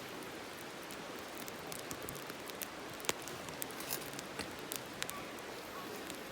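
Steady sizzling hiss with scattered sharp crackles and pops, from cooking over a campfire.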